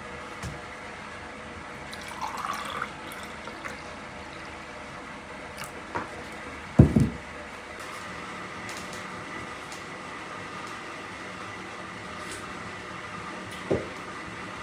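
Liquid briefly poured into a container, its pitch rising as it fills, among light clicks of handling. A heavy low thump comes about seven seconds in, and a smaller knock near the end.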